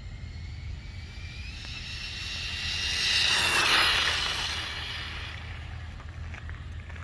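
Brushless motor of a modified Xinlehong Q901 1/16-scale RC car, a Racestar 3900 kV, whining at high speed. The whine rises in pitch and grows louder as the car approaches, peaks about three and a half seconds in, then fades as it runs away.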